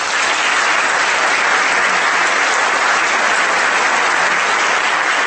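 An audience in a large hall applauding steadily, starting suddenly and holding at full strength.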